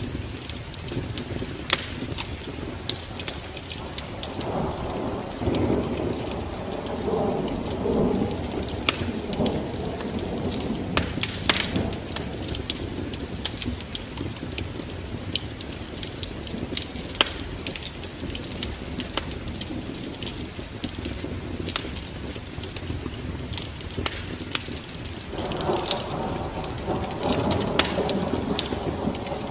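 Log fire crackling with many sharp pops over a steady hiss of rain. A low rumble swells about four seconds in and again near the end.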